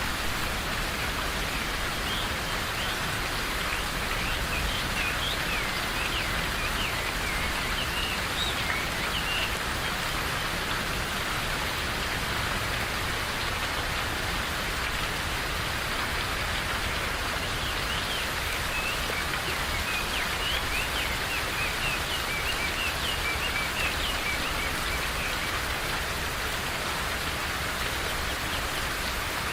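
Steady rain falling, with small birds chirping through it: quick high chirps, clustered in the first several seconds and again through the second half.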